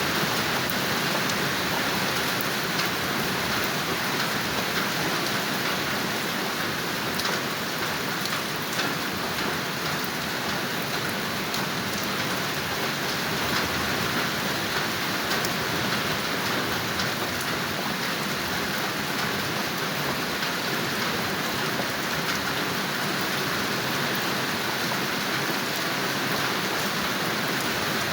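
Steady rainfall with many small drops pattering on a surface.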